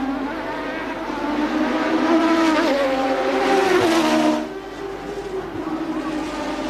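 Formula One car engines running at high revs. The engine note climbs in pitch and grows louder from about two seconds in, then drops away suddenly a little past four seconds, with engines still heard after.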